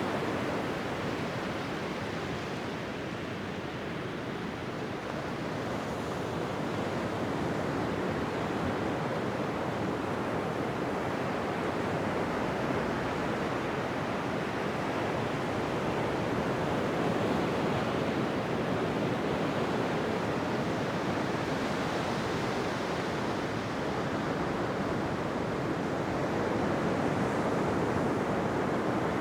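Ocean surf washing onto a beach: a continuous rushing wash of waves that eases a little a few seconds in and slowly swells again.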